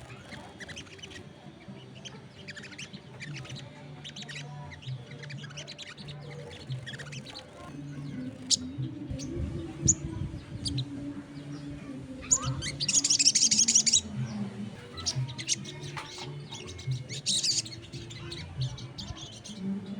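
A sogon songbird calling in quick short chirps and twittering, with a loud rapid burst of song about two-thirds of the way through and a shorter one near the end. A low steady hum runs underneath.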